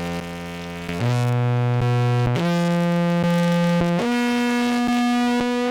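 Contrabass clarinet played through a fuzz and compressor pedal chain, giving a buzzy, synth-like tone: four long held notes in turn, the lowest in the middle and the highest last, each sustained at an even level by the compression, cutting off suddenly at the end.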